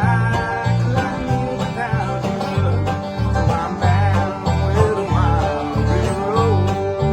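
Acoustic bluegrass band playing: banjo rolls and guitars over a BSX electric upright bass thumping out about two notes a second, with fiddle lines sliding and wavering above.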